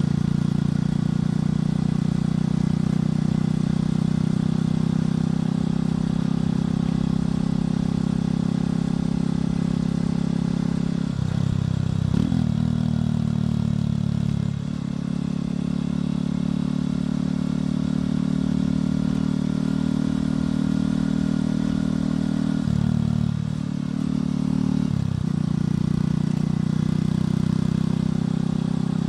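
Motorcycle engine and exhaust running steadily while riding, its note changing pitch and dipping briefly about halfway through and again near the end.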